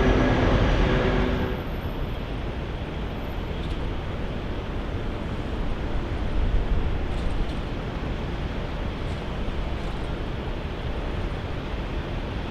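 Steady low rumble of engine and traffic noise, with a set of steady whining tones that cuts off about a second and a half in.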